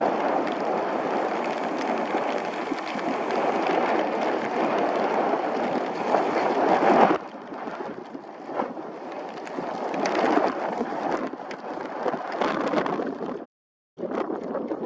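Gusty wind blowing over the microphone with rough sea water churning, a dense rushing noise. It drops off sharply about seven seconds in and cuts out briefly near the end.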